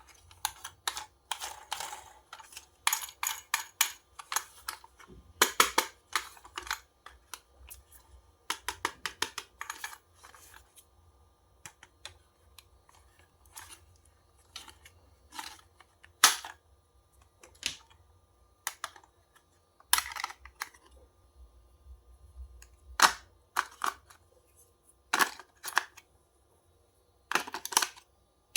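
Irregular clicks, taps and crackles of a toy's packaging being handled and opened, coming in short clusters with pauses between them.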